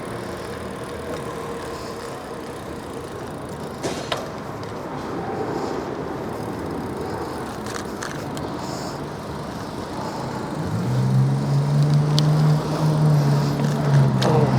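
Outdoor traffic and riding noise while cycling through a parking lot. About two-thirds of the way in, the low, steady engine hum of a nearby motor vehicle comes in and grows louder.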